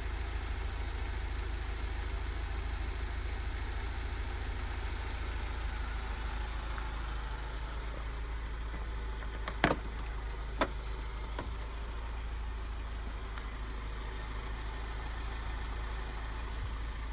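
Mercedes-Benz 190 E 2.0's four-cylinder petrol engine idling with a steady low hum. Two sharp clicks about a second apart come about ten seconds in.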